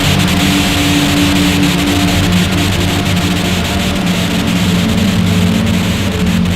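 Harsh noise and drone music: a loud, dense wall of hiss and crackle over several steady low droning tones that shift slightly in pitch.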